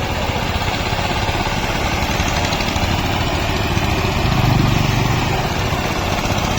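Tractor diesel engine running steadily while puddling a flooded rice paddy, growing briefly louder about four and a half seconds in.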